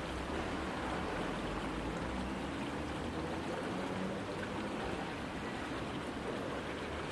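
Steady rush of flowing river water, with a faint low hum underneath.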